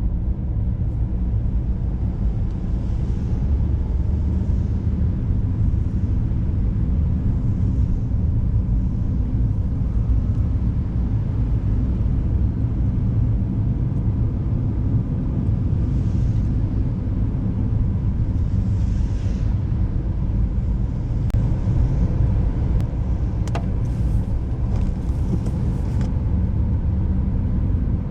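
Car driving on an icy, snow-packed road: a steady low rumble of engine and tyre road noise, with a few faint clicks near the end.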